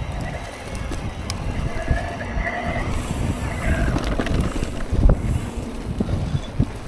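Mountain bike ridden over a rough, wet trail: wind buffeting the camera microphone over the rumble and knocks of the bike bumping along.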